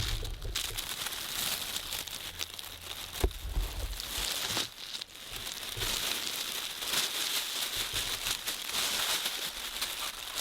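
Irregular rustling and crinkling noise, with a sharp click about three seconds in.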